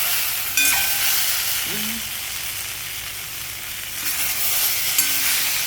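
Food sizzling as it fries in hot oil in a pan, with brief utensil scrapes about half a second in and near the end; the sizzle eases a little in the middle.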